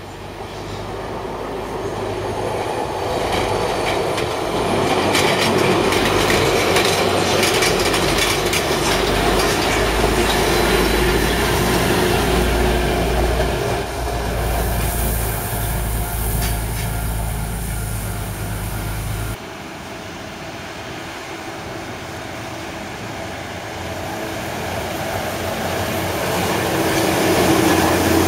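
Schneebergbahn 'Salamander' diesel rack railcar train running along the track, its engine's low hum and its wheels growing louder as it approaches and passes. About two-thirds of the way through the sound changes abruptly, and it builds again near the end as the train runs by close.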